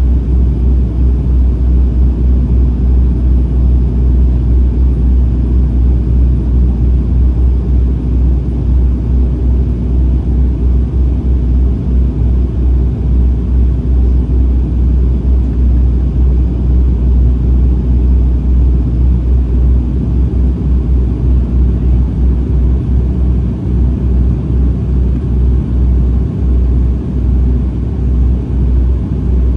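Airliner cabin noise in flight on the approach: a steady, deep rumble of the engines and airflow heard from a passenger seat by the window.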